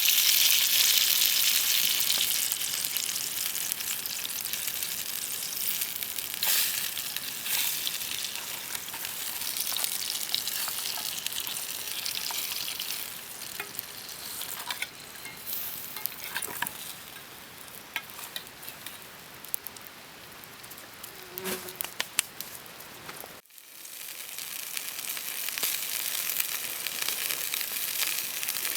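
Food sizzling and frying in a pan, a steady hiss with scattered pops and crackles. It is loudest at the start and eases off, then briefly drops out about 23 seconds in before the sizzle resumes.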